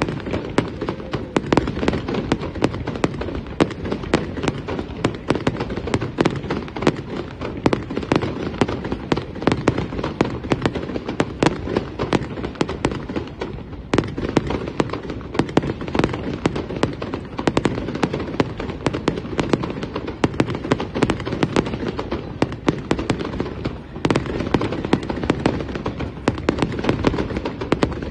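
Fireworks display going off in a dense, unbroken run of bangs and crackling, many reports a second over a continuous low rumble.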